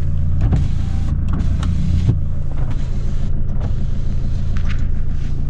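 Nissan Terrano's engine idling steadily, with two knocks in the first two seconds.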